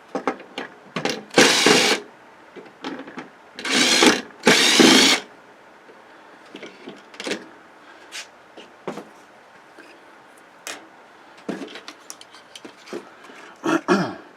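Power drill-driver run in three short bursts, the first about a second in and two more close together around four to five seconds in, then scattered light clicks and taps of small parts being handled.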